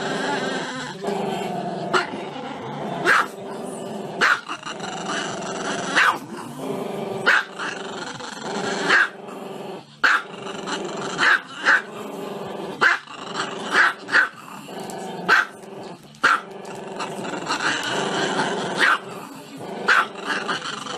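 A small black-and-tan dog, head tipped up, keeps up a drawn-out growling howl broken by sharp barks about once a second.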